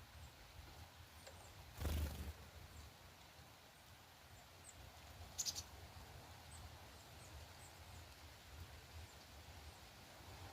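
Faint outdoor ambience with a steady low rumble, a dull thump about two seconds in, and a single short high chirp about five and a half seconds in.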